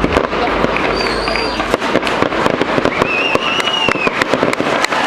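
Fireworks display: a dense run of irregular bangs and crackling shell bursts, with a low rumble fading out a little under two seconds in and thin whistling tones rising and falling over it.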